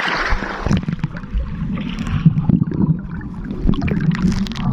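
River water churning and gurgling close to the microphone, with scattered small splashes and knocks.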